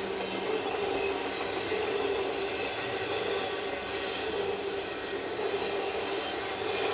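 Double-stack intermodal freight train rolling past at speed: a steady, even noise of steel wheels running on the rails as the loaded well cars go by, with a faint steady tone running through it.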